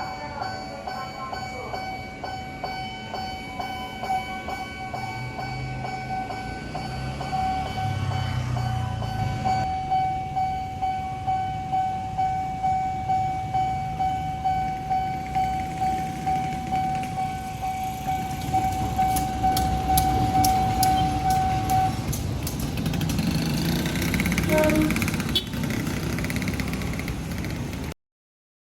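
A railway level-crossing warning alarm from Nippon Signal sounds a steady ringing tone while a train passes with a rhythmic rumble. The alarm stops about 22 seconds in, leaving mixed street and train noise until the sound cuts off near the end.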